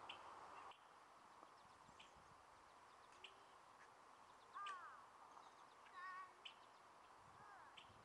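Faint calls of small wild birds: scattered short high chirps, with two clearer, sliding calls about halfway through.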